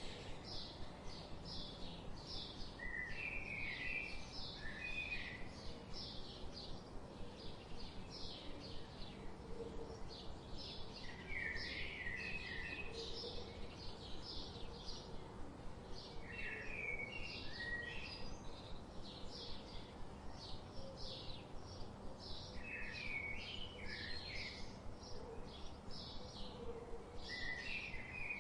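Birds chirping continuously: a dense stream of quick, high chirps, with a lower warbled phrase repeating about every five or six seconds over a steady background hiss.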